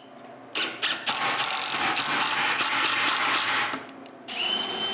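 Cordless drill driving screws into wood: about three seconds of rapid ratcheting clicks, then, after a short pause, the drill motor's steady high whine starts again near the end.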